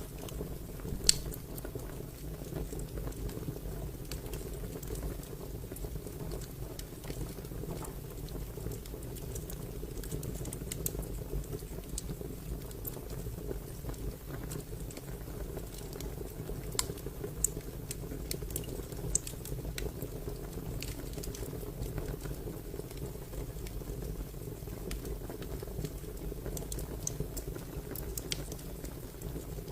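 Fire crackling: a steady low sound of burning with scattered sharp pops and snaps. The loudest pop comes about a second in.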